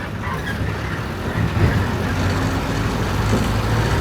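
A motor vehicle's engine running steadily: a continuous low hum under a wash of noise, rising slightly in level.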